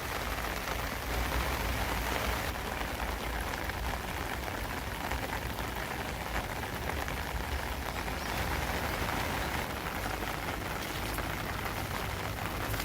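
Steady summer rain falling, an even hiss of drops with fine scattered ticks.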